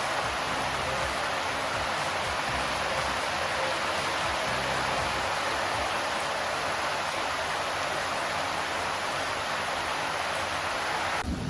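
Heavy monsoon rain falling steadily as an even hiss, cutting off abruptly just before the end.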